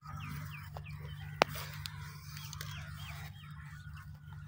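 Birds chirping in short falling calls, three near the start and three more about two and a half seconds in, over a steady low hum, with one sharp click about a second and a half in.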